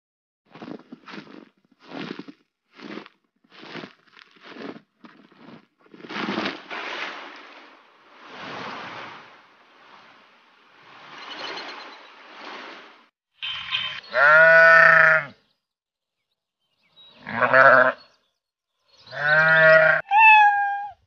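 Livestock bleating: a run of short rough calls, then longer hoarse ones, then three loud, quavering bleats near the end.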